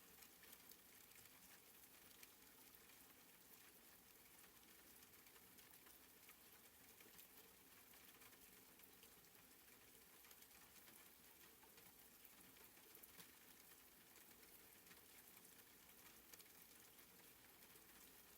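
Faint, soft rain: a steady hiss of fine patter from many small drops.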